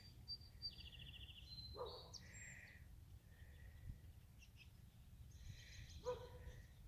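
Faint birdsong: scattered short high chirps and a brief buzzy trill, with two short lower calls about two seconds in and near the end, over a low steady background rumble.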